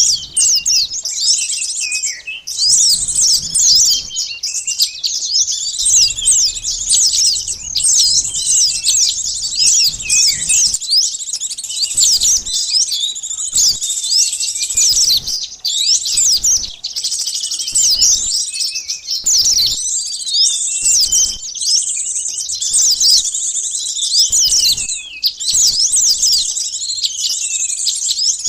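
Dense, continuous chorus of many overlapping high-pitched chirps and rapid twittering from small songbirds, a lure recording of sunbird (burung madu) and other small-bird calls used to draw wild birds in.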